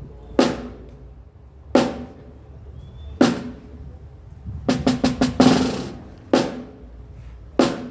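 Snare drum struck one hit at a time, about every second and a half, each hit ringing out, for a drum-kit soundcheck. A little after halfway comes a quick run of four or five strokes and then a harder hit with a longer, brighter wash.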